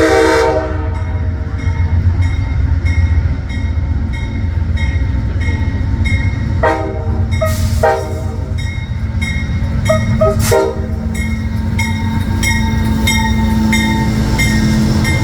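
Amtrak passenger train arriving behind its diesel locomotive: the horn chord cuts off just after the start, and the train rolls in with a deep rumble and the locomotive bell ringing about twice a second. Short horn sounds come at about seven, eight and ten seconds in, and a steady hum joins near the end.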